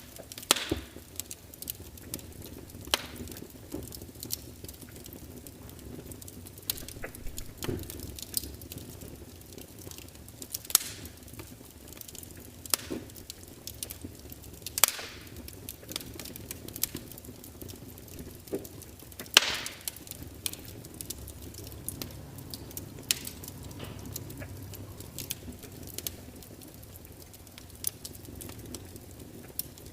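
Log fire burning, with irregular crackles and sharp pops from the burning wood over a low steady hiss of the flames; the loudest pop comes about two-thirds of the way through.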